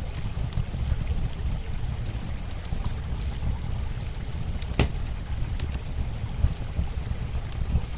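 Campfire crackling, with scattered sharp pops, the loudest about five seconds in, over a steady rush of running water and a low rumble.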